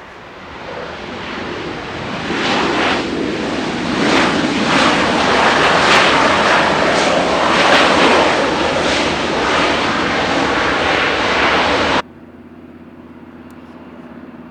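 Jet airliner engines at high power, growing louder over the first few seconds to a peak and holding there. The sound cuts off abruptly about twelve seconds in, leaving a quieter steady hum.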